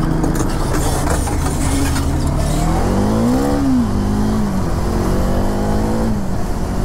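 Bajaj Dominar 400's single-cylinder engine accelerating hard, heard from the rider's seat with wind rush. The revs climb and drop back twice, around the middle and again near the end, as it shifts up.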